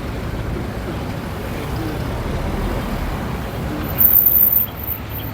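Steady low rumble of road traffic and vehicle engines, with faint voices in the background. About four seconds in, a sharp louder sound lasts about half a second.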